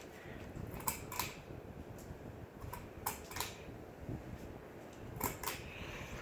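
Ceiling fan running on high and wobbling, a steady low rumble with pairs of light clicks about every two seconds.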